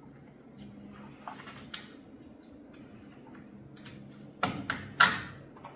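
Light clicks and clinks of small metal hardware, nuts, bolts and a bracket, being handled and fitted by hand, with three sharp metallic clicks near the end.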